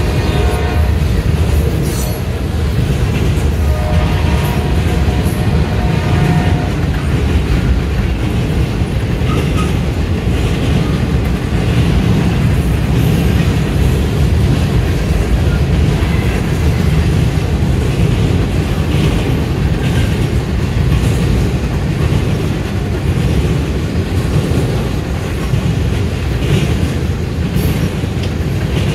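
Norfolk Southern freight cars rolling past close by: a steady, loud rumble of steel wheels on the rails. A brief pitched tone sounds at the very start and again from about four to six seconds in.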